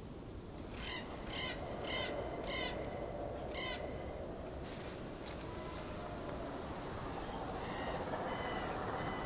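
A bird calling: five short calls in quick succession over a steady outdoor hiss, then fainter thin whistled notes near the end.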